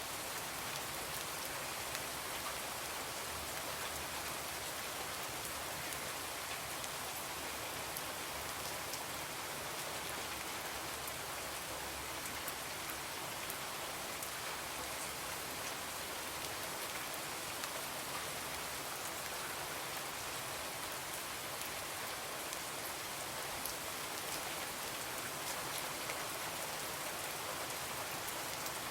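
Steady rain falling on a window: an even hiss with faint, scattered sharp drop ticks.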